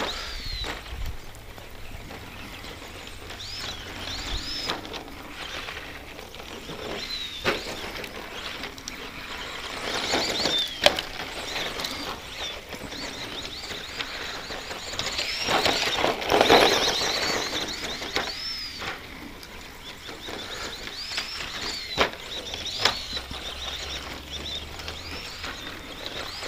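ECX Circuit RC stadium truck with a 15-turn brushed motor running on a rough dirt track. The motor and gears give short high whines that rise and fall as the throttle is blipped, with scattered knocks as the truck lands and hits bumps, and a louder burst of run and tyre noise about two-thirds of the way through.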